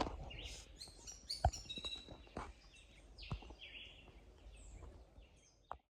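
Small birds chirping and calling, with a few sharp knocks from the microphone being handled; the sound cuts off suddenly near the end.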